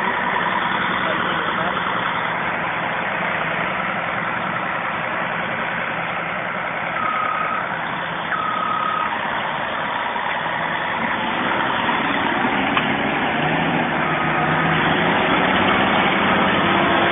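Caterpillar Challenger tractor's diesel engine running steadily while pulling, getting somewhat louder near the end.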